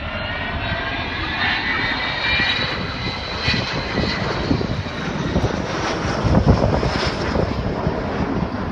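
Jet aircraft flying a display pass: a steady engine roar with a high turbine whine drifting in pitch, growing loudest about six and a half seconds in.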